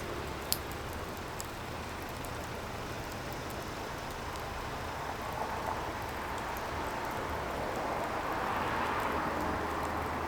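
Firewood burning: a steady hiss with scattered sharp pops and crackles, one loud pop about half a second in. The hiss swells slightly near the end.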